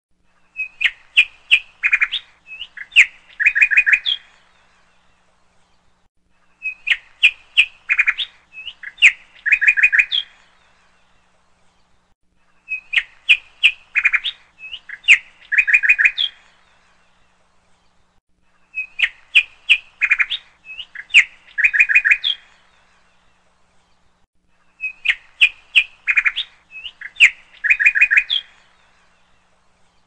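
Bird calls: a phrase of sharp chirping notes ending in a rapid chattering cluster, repeated the same way five times about six seconds apart, with silence in between.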